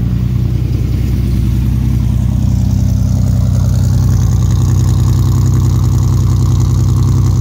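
1962 Ford Ranchero engine idling steadily shortly after starting, exhausting through glass-pack mufflers, heard at the tailpipe. It gets a little louder over the first few seconds.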